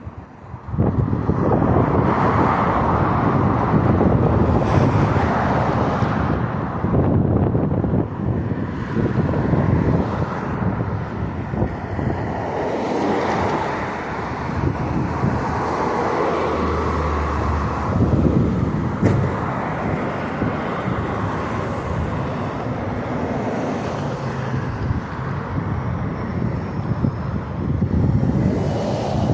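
Loud outdoor rumble of wind on the microphone mixed with passing road traffic, swelling and fading irregularly.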